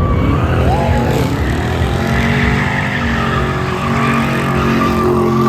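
Car engine revving hard with tires squealing, as in a burnout.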